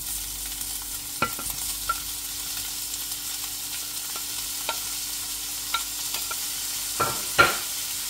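Garlic, onion and diced ham sizzling in oil in a stainless steel frying pan, a steady hiss. Several sharp knocks and clicks as the ham is scraped off a plate into the pan with a wooden spatula, the loudest two near the end.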